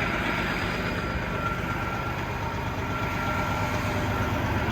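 Steady drone of a semi-truck's diesel engine and road noise heard from inside the cab, with a faint steady high tone running through it.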